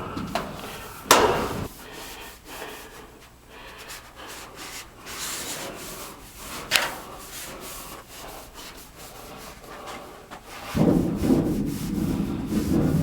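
Hand scrubbing and rubbing inside sheet-metal return-air ductwork: uneven scraping friction noise, heavier at the start and again near the end, with a sharp knock about a second in and a click near the middle.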